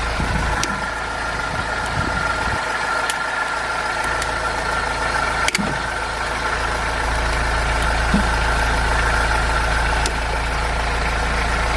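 A car engine idling steadily while it jump-starts another car's flat battery, with a couple of short clicks about halfway through.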